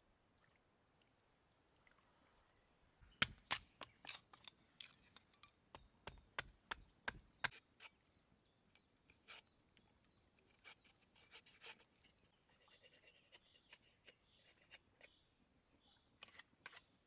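Knife chopping on a cutting board: a quick run of sharp knocks, about three a second for some four seconds, then scattered lighter taps.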